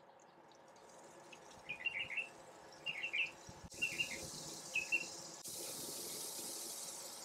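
A small bird chirps in short clusters of quick notes, about once a second. From about halfway through, a steady soft hiss comes in as the oil-and-vinegar mop is poured over the goat on the smoker grate.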